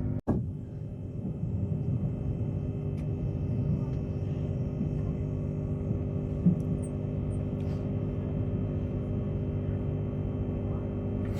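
Steady cabin noise inside a Tilt Train passenger car: a low rumble under a layered, even hum. The sound cuts out for a split second just after the start, and a faint click comes about six and a half seconds in.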